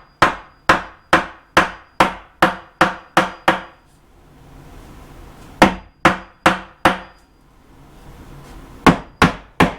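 Hammer blows knocking a tight-fitting 2x4 wooden stud into place in a wall frame: a quick run of about nine strikes, a pause, four more, and another run starting near the end.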